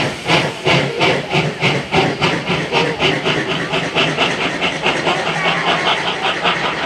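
Steam locomotive C57 1's exhaust chuffing hard as it accelerates away, the beats speeding up from about two and a half to about five a second. A thin squeal joins near the end.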